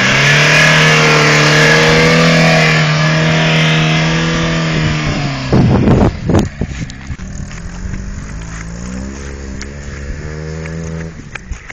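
Volkswagen Passat B2 engine held at high revs with a loud hiss of the wheels spinning on wet grass, then fainter as the car pulls away. Its revs climb again and drop away near the end.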